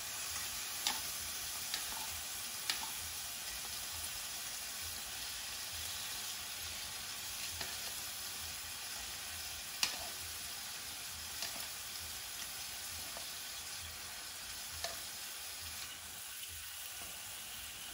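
Seasoned shrimp frying in olive oil in a cast iron pan: a steady sizzle, with a few sharp clicks of metal tongs against the pan as the shrimp are laid in.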